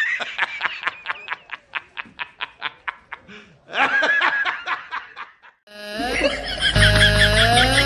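Meme laughing sound effects: a rapid, staccato snickering laugh of about six or seven beats a second that fades away over some three seconds, then a second, fuller laugh. Electronic music starts about six seconds in.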